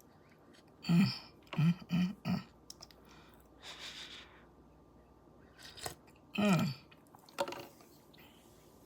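A person sipping hot coffee: several short hummed 'mm' sounds, a breathy slurp about four seconds in, and a longer 'mmm' falling in pitch about six and a half seconds in.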